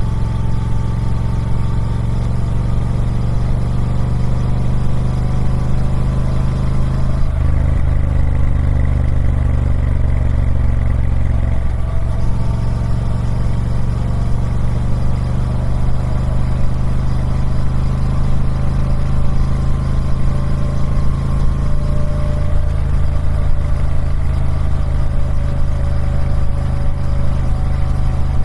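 Triumph Speed Twin 1200's 1200cc parallel-twin engine running steadily through its stock exhaust, its pitch drifting gently up and down. About seven seconds in the note turns deeper and heavier for several seconds.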